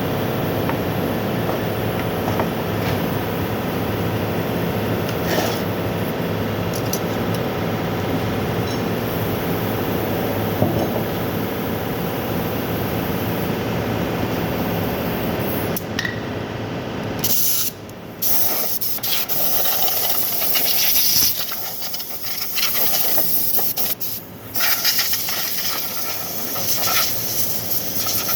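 A machine running steadily with an even hum, changing about two-thirds of the way in to an irregular hissing, rushing noise that rises and dips in level.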